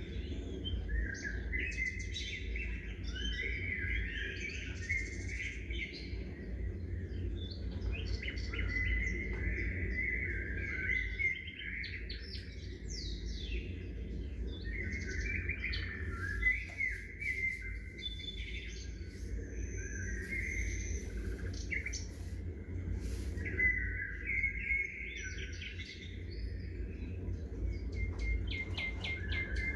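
Many small birds chirping and twittering in overlapping short calls and trills, over a steady low rumble.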